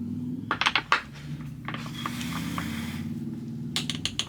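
A skate tool working a skateboard truck's kingpin nut, giving a few sharp metal clicks about half a second in and again near the end, with the nut turning stiffly, over a steady low hum.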